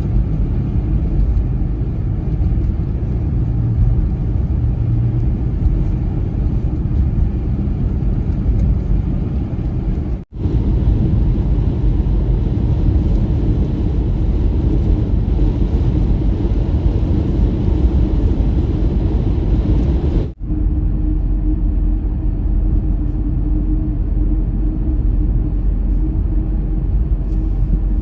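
Blizzard wind buffeting the microphone, a loud, steady low rumble. It runs in three clips, each cut off suddenly, about 10 and 20 seconds in. In the last clip a steady low hum sounds under the wind.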